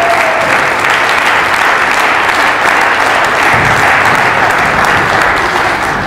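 Crowd applauding steadily, dying away at the end.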